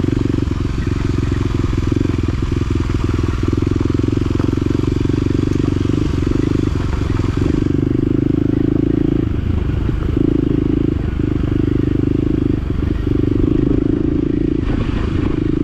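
Side-by-side UTV engine running steadily while driving a rough rocky trail, its drone dipping briefly a few times, with some light rattles from the machine.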